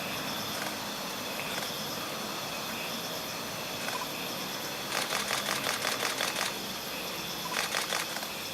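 Camera shutter firing in two rapid bursts, about seven clicks a second, the first lasting about a second and a half, the second shorter near the end, over a steady outdoor hiss.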